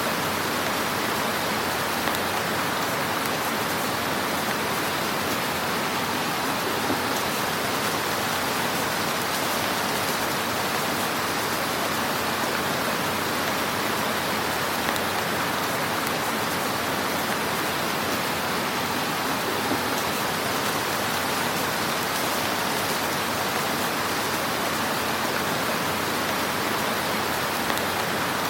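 Fire burning in a fireplace: a steady crackling hiss with a few small pops here and there.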